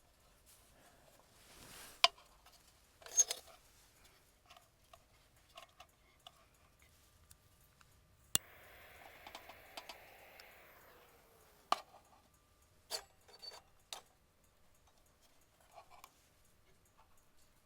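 Scattered clicks and knocks of objects being handled, a few sharp ones standing out, with a short rushing hiss in the middle.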